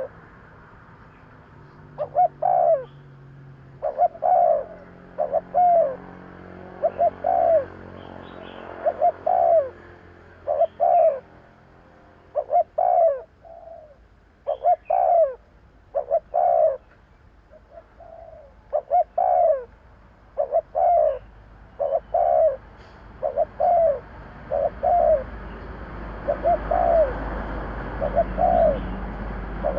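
Spotted dove cooing: short coos repeated in twos and threes, again and again.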